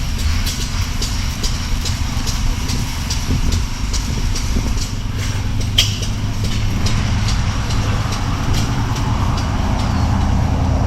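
A nearby engine running steadily at a low idle, a continuous low rumble.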